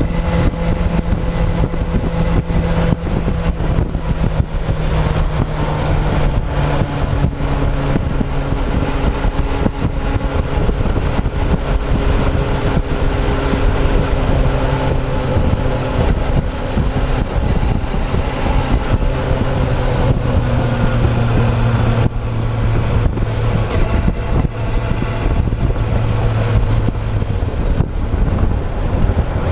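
Motorcycle engine running under way, picked up close from a tank-mounted camera, its note stepping gradually lower in pitch, with wind noise over the microphone.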